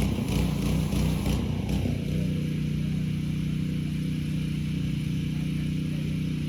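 A generator's engine running steadily with a low hum, which comes clear about two seconds in as a broad rushing noise dies away.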